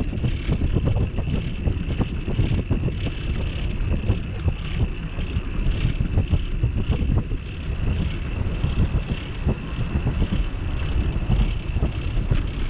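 Wind buffeting the microphone of a bicycle-mounted camera while riding, a dense, uneven low rumble, with a faint steady high-pitched tone underneath.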